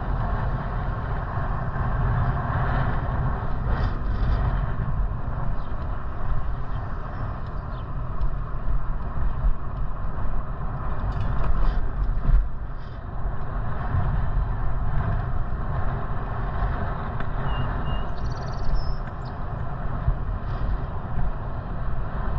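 Steady rush of wind and road rumble from riding a bicycle, with vehicle traffic noise and a few short clicks.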